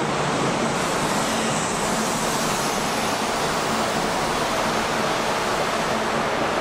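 Kintetsu 21000-series Urban Liner plus limited express train running into an underground station platform, a steady rush of wheel and running noise as its cars pass.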